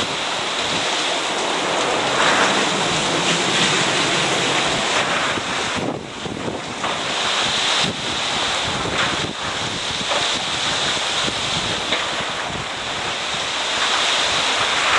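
Strong typhoon wind gusting against the microphone: a loud, steady rushing that swells and eases, with brief lulls about six and eight seconds in.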